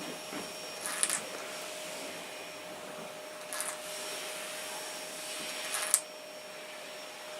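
Vacuum cleaner running steadily with a constant hum, with three short, sharp high-pitched sounds about a second in, around three and a half seconds, and at six seconds.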